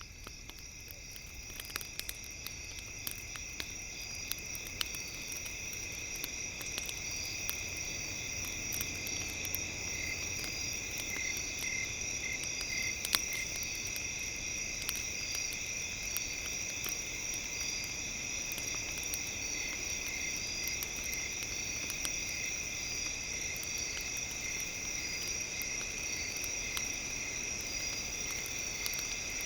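Campfire crackling with scattered sharp pops, over a steady high-pitched insect-like trilling. The sound fades up over the first few seconds, then holds steady.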